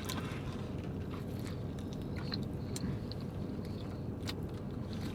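Close-up chewing of fast food, with scattered soft mouth clicks over a steady low hum.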